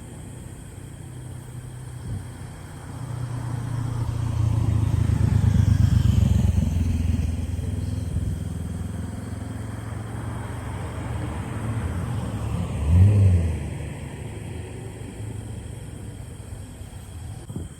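A motor vehicle passing close by: its low engine rumble swells over a few seconds, then fades. About 13 seconds in comes a short, louder low blast, the loudest sound in the stretch.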